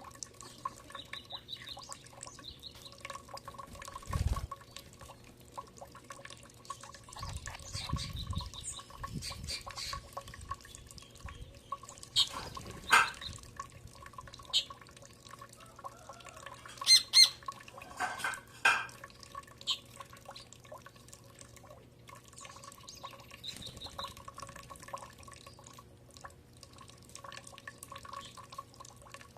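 Birds chirping and calling now and then while they feed, with scattered short clicks and a few louder sharp calls near the middle, over a faint steady hum.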